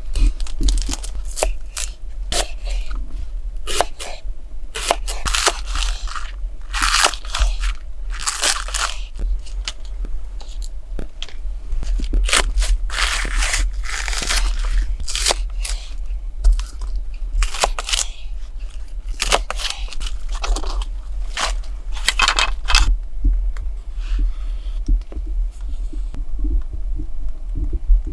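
Irregular crunching and crackling, several short crunches a second with brief pauses, over a steady low rumble.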